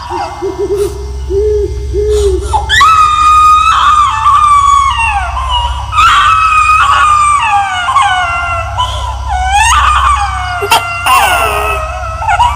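Horror sound effect of high-pitched, drawn-out wailing cries, several in a row, each held and then falling in pitch, over a steady low droning hum.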